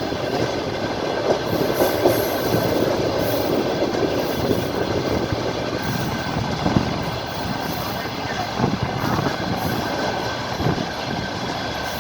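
Train wheels running on the track, heard from inside a moving carriage: a steady rumble with a few wheel knocks over rail joints in the second half.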